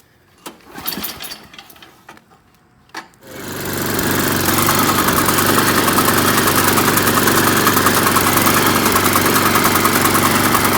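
A few clicks and handling noises, then about three seconds in an MTD Yard Machines snowblower's engine catches and runs loud and steady.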